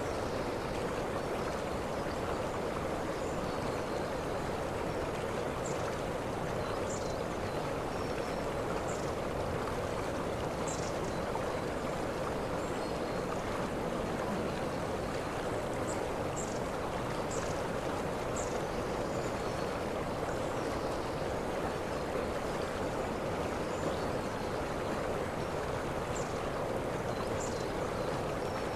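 Waterfall rushing steadily, with short high chirps here and there above the water.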